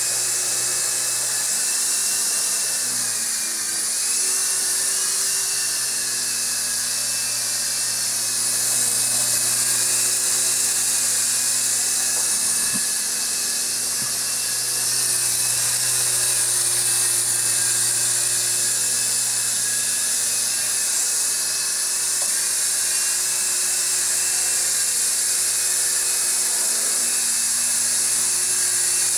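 Syma S33G radio-controlled toy helicopter's electric motors and rotors running, a steady high-pitched whine whose pitch wavers slightly now and then as the throttle changes.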